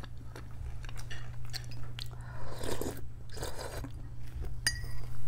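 Close-up chewing of fried potato pirozhki, with scattered short clicks and crunches over a steady low hum.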